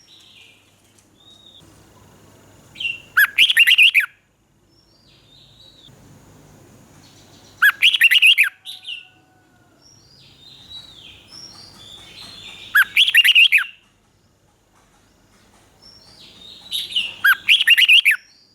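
Red-whiskered bulbul singing: four short, loud song phrases spaced about four to five seconds apart, with softer chirping notes between them.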